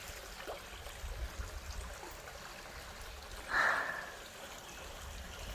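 Shallow creek running over rocks: a steady rush of water. About three and a half seconds in, a short breathy puff sounds briefly.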